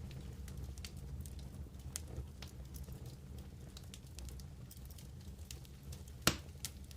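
Wood fire crackling, with scattered small pops over a low steady rumble, and one loud sharp pop about six seconds in.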